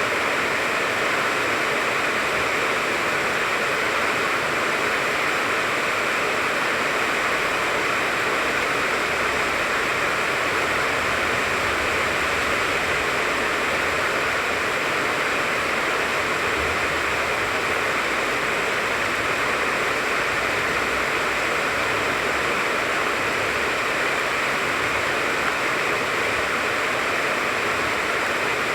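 Steady rain falling on a tangerine tree, an even, unbroken hiss of drops on leaves.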